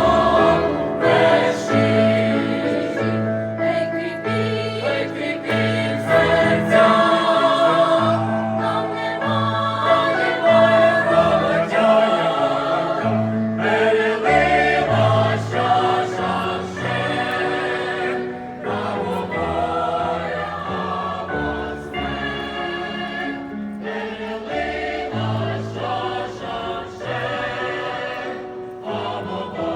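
Mixed choir of men's and women's voices singing a song in harmony.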